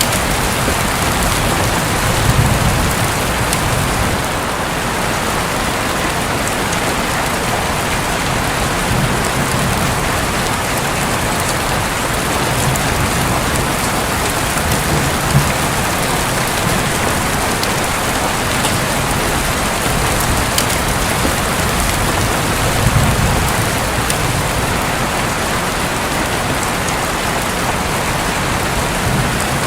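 Steady rain falling on a roof, with low rumbles of distant thunder swelling a couple of seconds in and again near the end.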